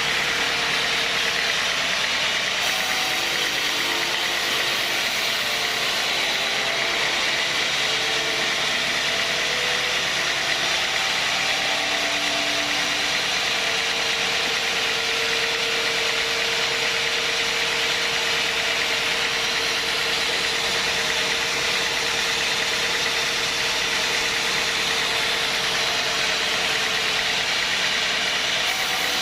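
Sawmill machinery running steadily, a continuous even mechanical noise with no pauses or breaks.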